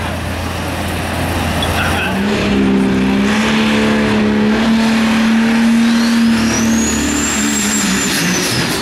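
Super Stock diesel pickup truck engine at a truck pull. About two seconds in it revs up to high revs and holds there, getting louder, with a high whistle that rises and then falls near the end.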